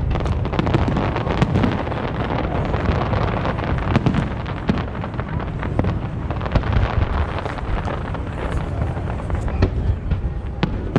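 Professional aerial fireworks display: a dense, unbroken barrage of overlapping booms and crackles from bursting shells, with a heavy low rumble underneath.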